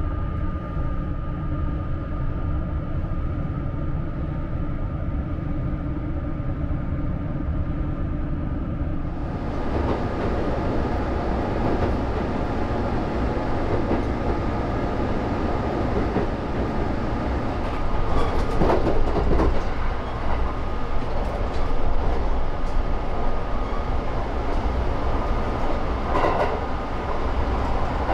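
Kintetsu limited express train heard from inside the passenger cabin: a steady rumble of wheels on rail with a faint steady whine. The sound turns brighter about a third of the way in, with brief louder rattles about two-thirds of the way in and again near the end.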